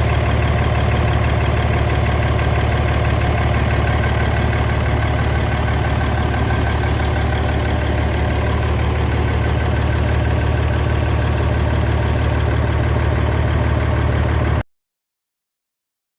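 Isuzu 6WF1 truck diesel engine idling steadily with a strong low hum. It cuts off abruptly near the end.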